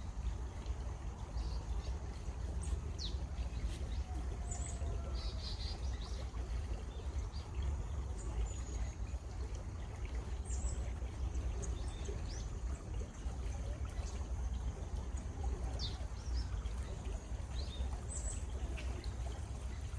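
Steady rush of flowing water, with small birds chirping now and then in short, high calls.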